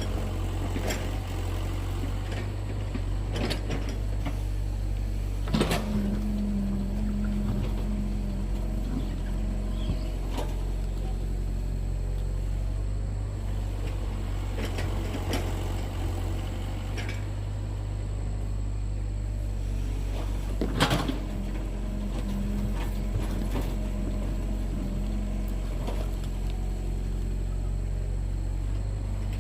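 An engine running steadily with a low hum, with scattered knocks and clanks. About six seconds in, and again about twenty-one seconds in, a louder knock is followed by a few seconds of a higher, steadier hum.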